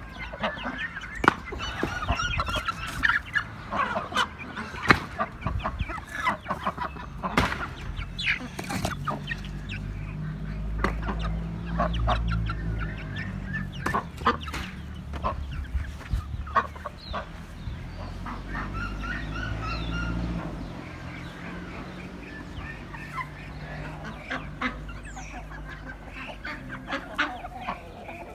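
Backyard chickens clucking softly as they forage, with many sharp clicks and taps throughout. A low rumble sits underneath through the middle stretch and then fades out.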